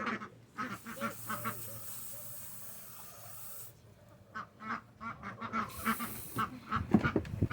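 Ducks quacking, a run of short repeated calls, with a steady hiss for the first few seconds and some low thumps near the end.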